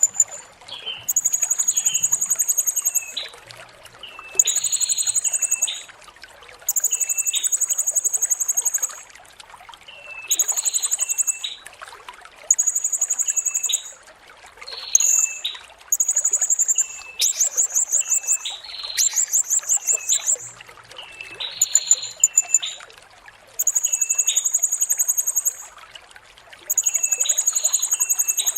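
Blue-crowned hanging parrot (serindit) singing. High, buzzy trills lasting one to two seconds alternate with short, lower chirps, repeating every couple of seconds.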